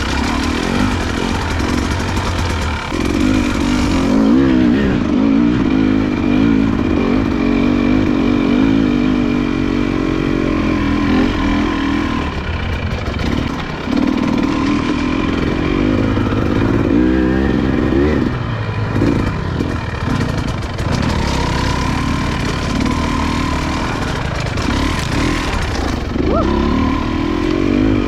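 Motorcycle engine running under constantly changing throttle while riding, its revs rising and falling again and again.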